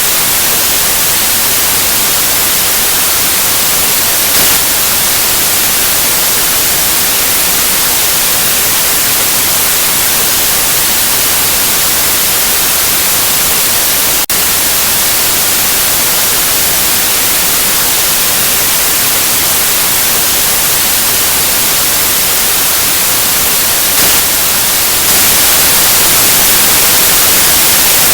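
Steady electronic white noise, an even full-range hiss weighted toward the high end, with a brief click about halfway through.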